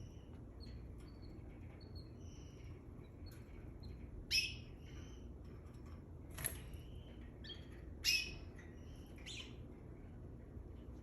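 A pair of domestic canaries squabbling: short high chirps throughout, with a few sharp, louder calls about four, six and a half, and eight seconds in.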